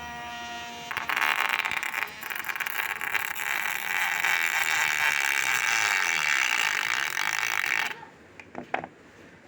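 Small motor of a homemade grinder whining steadily, then about a second in a loud, rasping grinding noise as it works for about seven seconds. The grinding cuts off abruptly, followed by a few clicks.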